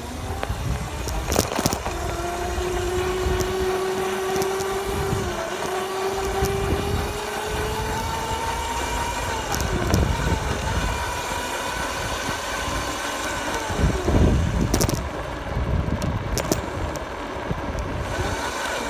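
Dirt bike engine running under way, its pitch climbing slowly and dipping at gear changes, a couple of them about ten and fourteen seconds in.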